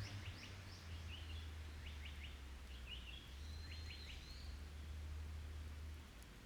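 Small songbird calling in several short bursts of quick, high chirps over the first few seconds, with a low steady hum underneath.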